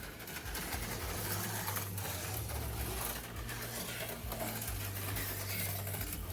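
HO slot cars' small electric motors running, a steady whir with a low hum that shifts in pitch and a few light clicks.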